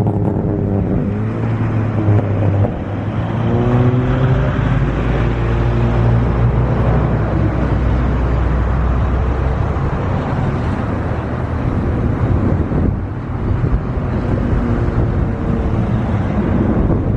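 Loud engine noise: a steady low rumble under a dense hiss, with a pitched tone that rises a few times.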